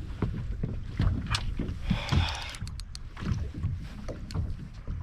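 Knocks, clicks and clatter of handling in a small rotomoulded plastic boat while a hooked fish is played, over low wind rumble, with a short rushing hiss about two seconds in.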